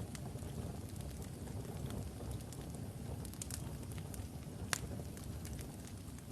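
Logs burning in a fireplace: a steady low rumble of flames with scattered small crackles and one sharp pop about three-quarters of the way through.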